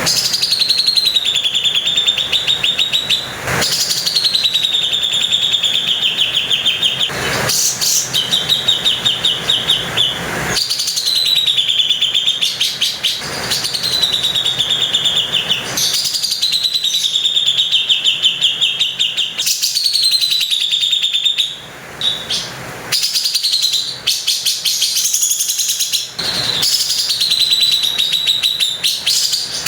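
Cucak jenggot (grey-cheeked bulbul) repeating a harsh, rattling call phrase over and over. Each phrase lasts two to three seconds, starts a little higher and settles into a steady buzzy trill. Short sharp clicks fall between some phrases.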